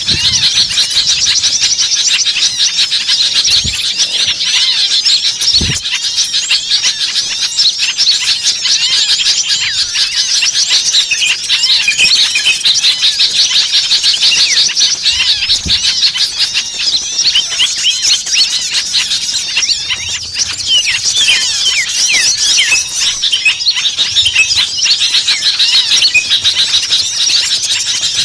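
Dense, noisy chorus of many small songbirds calling at once: rapid high chirps and short whistled glides without a pause, the agitated flock sound used as a recording to lure small birds in.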